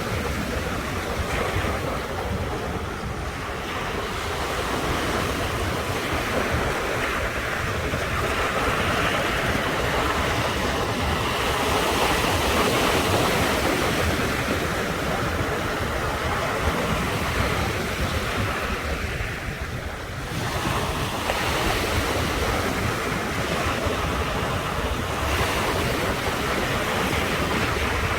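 Ocean surf breaking and washing on the shore, swelling and easing over several seconds at a time, with wind rumbling on the microphone.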